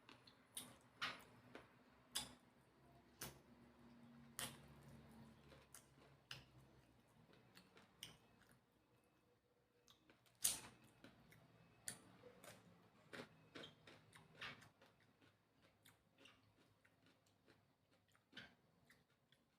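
Faint eating sounds from spicy chicken feet being eaten: irregular wet clicks and smacks of chewing, spaced a second or more apart, with the sharpest one about halfway through.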